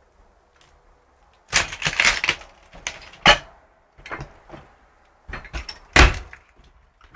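Crunching and cracking of debris in irregular clusters: one about a second and a half in, a single sharp crack a little past three seconds, and another cluster around five to six seconds, the loudest crack about six seconds in.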